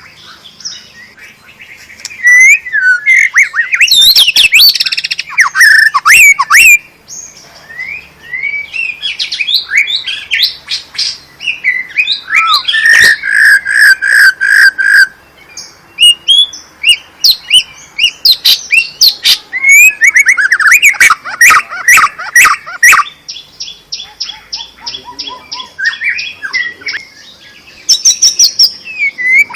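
White-rumped shama (murai batu) singing a loud, varied song of whistled phrases, fast trills and sharply repeated notes, broken by short pauses.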